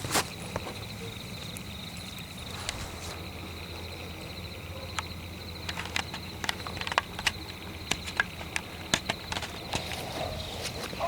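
Night-time forest ambience: crickets chirping steadily at a high pitch over a low steady hum. Irregular footsteps crack and crunch on twigs and leaves, sparse at first and coming thick and fast in the second half.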